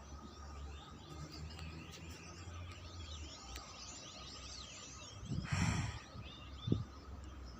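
A gathering flock of many small birds chirping and twittering together. A little past five seconds in a short breathy puff of noise hits the microphone, and a brief low thump follows shortly before seven seconds.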